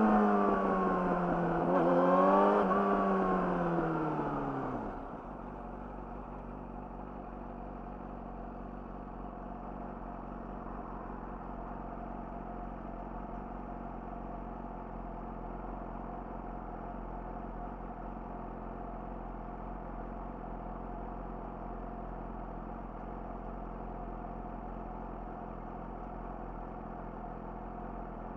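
Yamaha YZF-R6 inline-four engine through an Akrapovic slip-on exhaust, revs falling off with one short rise about two seconds in. It settles to a steady idle about five seconds in.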